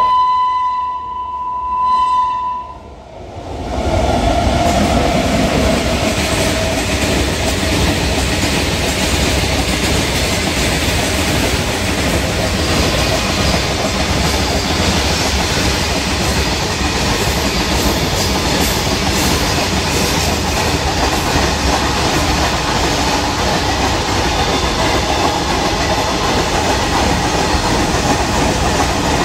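A goods train sounds its horn in a long blast, then from about three seconds in runs through the station, a loud steady noise of locomotive, wheels and wagons passing close by.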